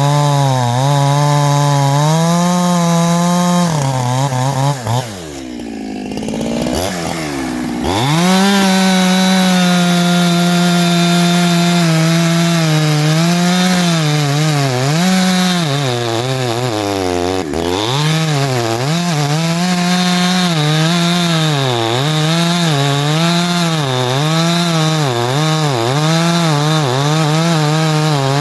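Ported Farmertec G372XT two-stroke chainsaw at full throttle cutting through dry wood, its engine note wavering up and down as the chain loads and clears. About five seconds in the revs fall away steeply, then climb back to full speed about eight seconds in and the saw cuts on. The owner feels it lacks pull and could use about 5 degrees more ignition advance.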